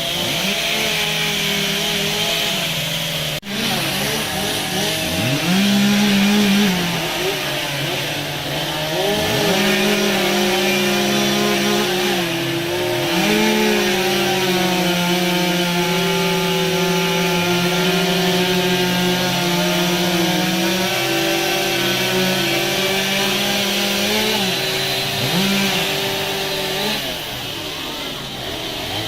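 Chainsaws running at a carving session, the engine tones rising and falling as the throttle is worked, with a long stretch of steady high revs under cutting. An abrupt break about three and a half seconds in.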